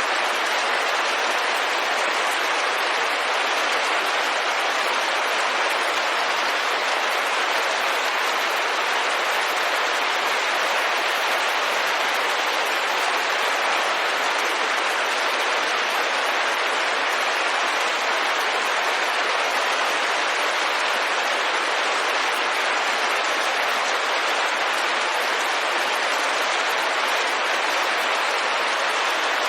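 Steady rain on a window pane: an even, unbroken hiss with no single drops standing out.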